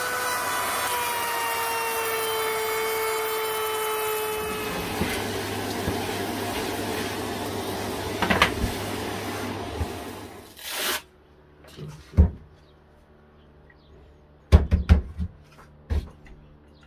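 A workshop power tool's motor running, with a pitch that falls slowly over the first few seconds, then stopping about ten seconds in. After it stops come several short knocks and clicks.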